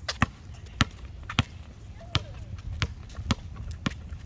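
Basketball being dribbled on a hard court, bouncing about twice a second.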